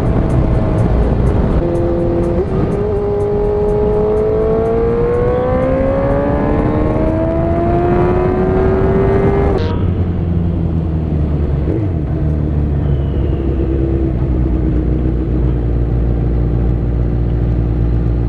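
Suzuki GSX-R sport bike engine heard from on board, pulling with its pitch climbing steadily, with a dip about two seconds in that fits a gear change. About ten seconds in the throttle shuts and the engine drops to a low, steady rumble as the bike slows.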